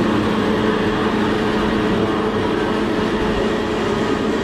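Grinder milling soaked soybeans into biji (soybean pulp), a steady machine grinding with a constant low hum.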